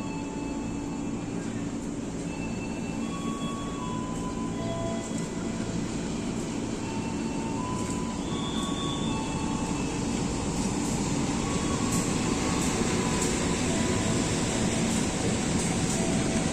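Train running with a steady low hum, under a rumble of wheels on rails that grows louder through the second half, with light ticks of wheels over rail joints near the end.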